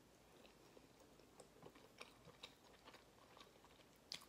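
Faint close-up chewing of soft macaroni and cheese, with small wet mouth clicks. Near the end a sharper click as the wooden spoon scoops in the bowl.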